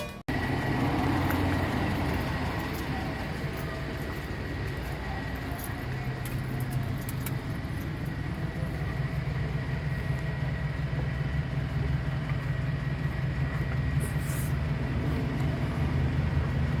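A motor vehicle engine running steadily, a low even hum with no change in speed.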